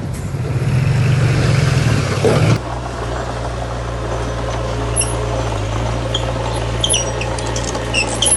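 Heavy diesel construction machinery engine running steadily. The sound changes abruptly about two and a half seconds in from a louder, rougher run to an even low drone, with a few faint high chirps near the end.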